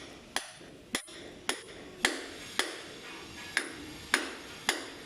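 Hammer blows struck at a steady pace, about two a second, each a sharp knock with a short ringing tail.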